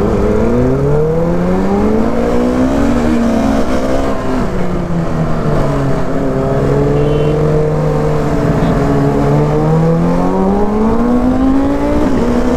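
Motorcycle engine running while riding, its pitch rising and falling slowly with throttle and gear changes, over a steady wind rumble on the microphone.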